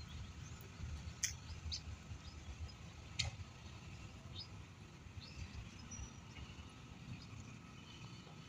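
Scattered short bird chirps and calls of wild park birds over a steady low rumble, with two sharp clicks, the loudest sounds, about a second in and about three seconds in.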